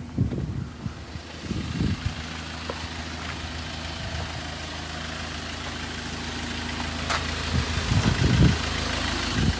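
Refuse truck's diesel engine idling steadily, with a few low thumps; the sound grows louder over the last few seconds.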